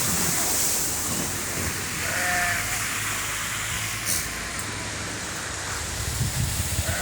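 Steady rain falling, with a short pitched animal call about two seconds in and another at the very end.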